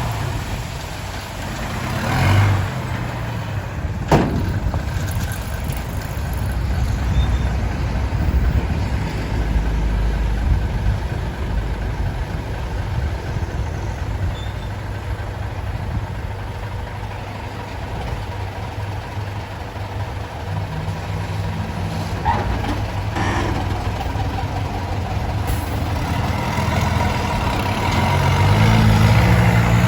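Heavy diesel vehicle engines running steadily, with a sharp click about four seconds in; an engine swells louder with a stronger note near the end.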